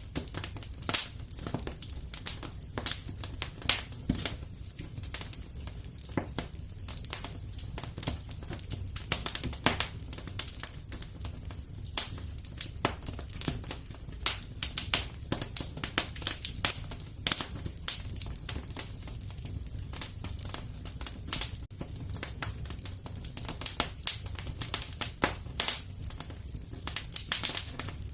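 Fire crackling in a fireplace: frequent irregular sharp pops and snaps over a low steady rumble.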